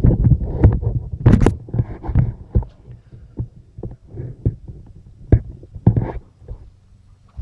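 Handling noise on a handheld camera's microphone: irregular low thumps and rumbling with scattered sharp clicks, heaviest in the first few seconds and thinning to occasional knocks near the end.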